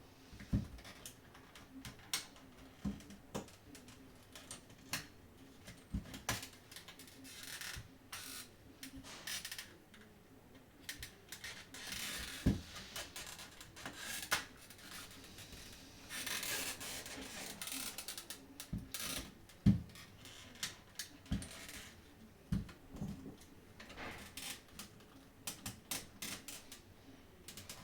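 Plastic parts of a PS5 DualSense controller being worked apart by hand and with tools: a string of sharp clicks and taps, with a few longer scraping and rubbing stretches.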